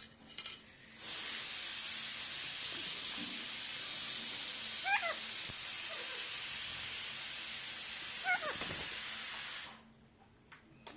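A steady hiss starts suddenly about a second in and cuts off near the end. Twice during it, around the middle and again later, a pet parrot gives a short wavering call.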